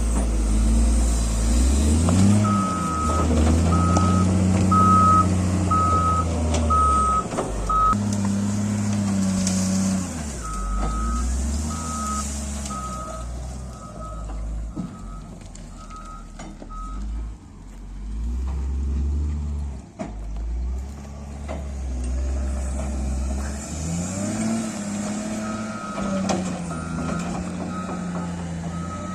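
Heavy diesel construction machine running, with its reversing alarm beeping just over once a second in three separate runs. The engine revs up twice as the machine moves off.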